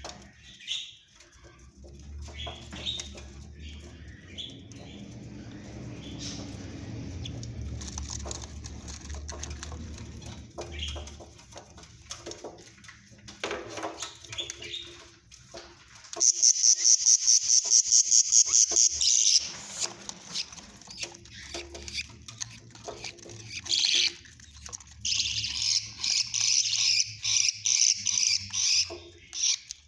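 Budgerigar chicks calling in rapid, raspy pulsed bursts, loudest for a few seconds past the middle and again near the end, with scattered rustling and clicks in between.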